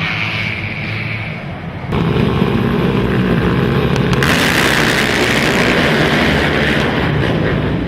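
Racing quad (ATV) engines in an indoor arena, loud and overdriving the camera microphone into a booming rumble. The rumble jumps up suddenly about two seconds in, and a harsh hiss joins it from about four seconds in.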